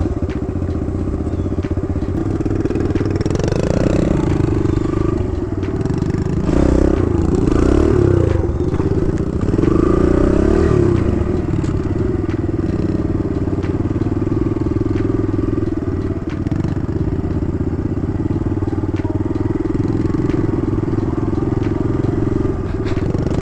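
Kawasaki KLX 110 dirt bike's small single-cylinder four-stroke engine running under way, revving up and down several times in the first half as the throttle is worked, then holding a steady pace.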